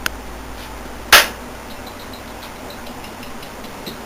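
A loud, sharp electrical bang about a second in as conductive condenser cleaner shorts across the wet circuit board of a flood-damaged CRT television, followed by faint ticking about four times a second over a low mains hum.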